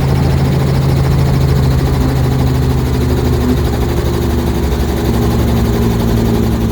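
Robinson R44 helicopter running: a steady, loud engine and rotor noise with a low hum, and a higher steady tone joining about halfway through.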